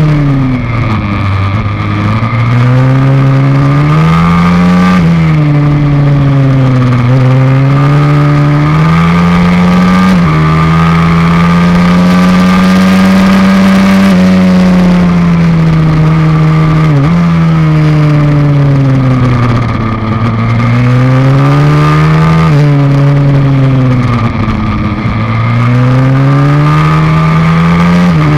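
A YX160 single-cylinder four-stroke pit bike engine heard on board at full throttle, revving up through the gears with a sudden drop in pitch at each upshift, and falling away as it slows for a corner several times.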